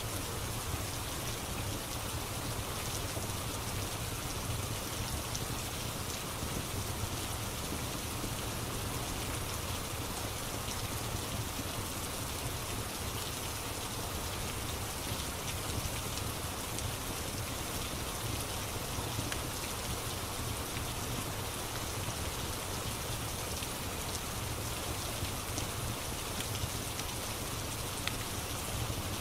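Steady rain ambience mixed with the small, scattered crackles of a wood fire in a fireplace.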